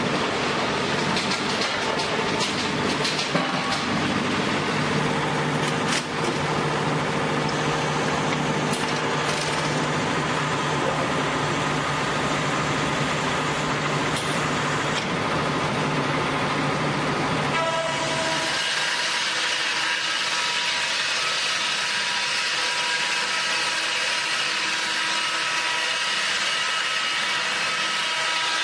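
Sawmill machinery running with a steady mechanical noise. About two-thirds of the way through it changes abruptly to a thinner sound with a steady high whine.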